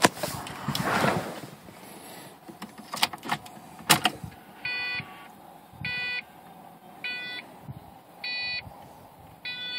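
A few clicks and knocks in the first four seconds, then the car's electronic warning chime dinging evenly, about once every 1.2 seconds, five times.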